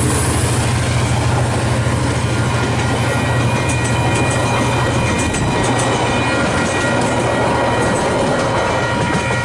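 Northern Explorer passenger train passing over a level crossing. A DFB diesel-electric locomotive hums deeply for about the first five seconds, then the carriages follow with clicking wheels. The crossing's electronic bells ring steadily throughout.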